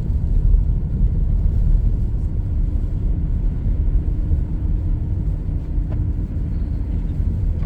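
Car interior road noise while driving: a steady low rumble of engine and tyres, with a faint steady hum joining in a few seconds in.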